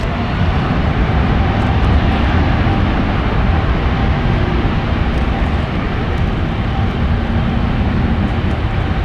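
Jet airliner taking off under full power: loud, steady jet engine noise with a heavy low rumble, swelling over the first second and then holding.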